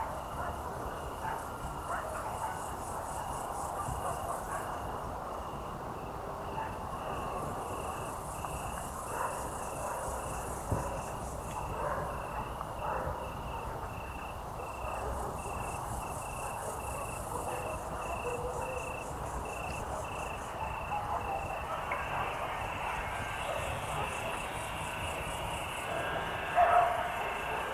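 Evening countryside ambience: crickets chirping in an even, regular pulse, with bouts of very high insect trilling a few seconds long that come and go. Faint distant sounds sit underneath, and a brief louder sound comes near the end.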